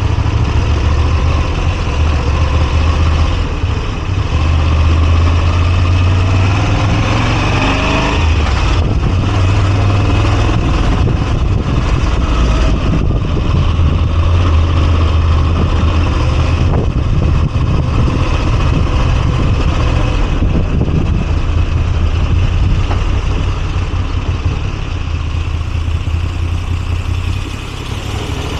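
A Moto Guzzi V85TT's air-cooled V-twin running under way. Its pitch rises about a quarter of the way in, then drops back, and the sound eases off a little near the end.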